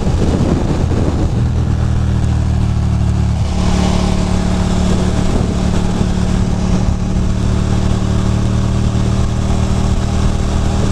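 Ducati Monster 620's air-cooled L-twin engine running at highway cruising speed, its note stepping up in pitch about a second in and again about three and a half seconds in, over a steady rush of wind noise.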